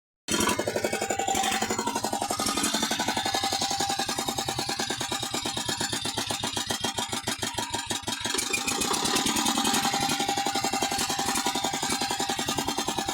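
A restored walking tractor's engine running steadily, with a rapid, even firing rhythm; it cuts in abruptly just after the start.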